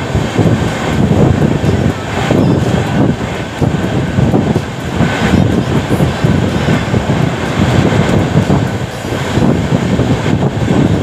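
Gorakhpur–Bandra Humsafar Express passenger train running through a station without stopping: a steady, loud rumble of wheels on rails, heard from outside the coach side.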